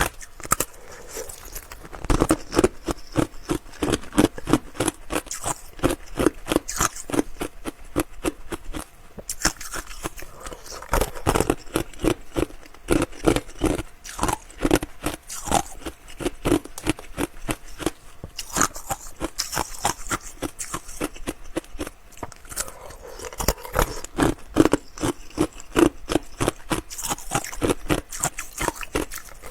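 Ice being crunched and chewed close to the microphone: rapid crisp crunches, several a second, coming in louder bouts.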